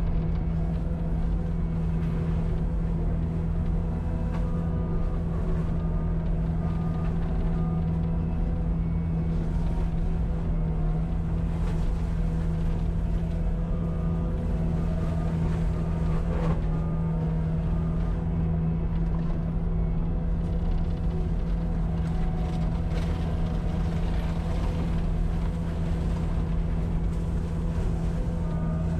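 Cat 259D compact track loader running a hydraulic forestry mulcher, its diesel engine and mulcher drum holding a steady, even drone at constant high speed.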